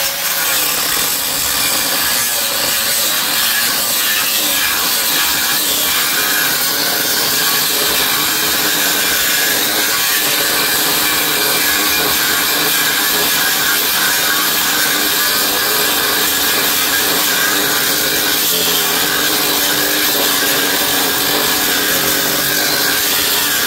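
Angle grinder cutting through a transformer's thick copper windings, a loud steady grinding that holds under load and stops near the end.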